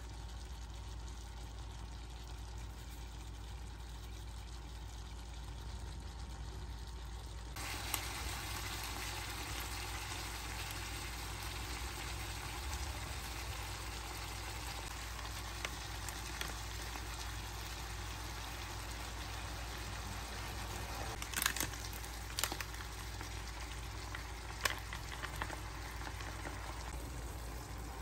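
Tomatoes, cashews and onions sizzling gently in a non-stick frying pan. The sizzle turns brighter and a little louder about eight seconds in, and a few light knocks come in the last third.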